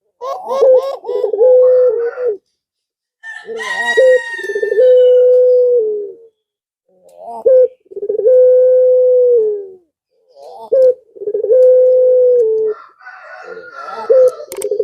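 Male puter pelung (Barbary dove) cooing in about four repeated phrases, each a few quick bouncing notes and then a long held coo: the male's call to a female. A higher-pitched call cuts in briefly about four seconds in and again near the end.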